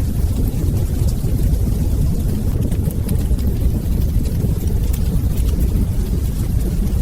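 Wood fire burning in a fireplace: a steady low rumble of the flames with a few faint crackles scattered through.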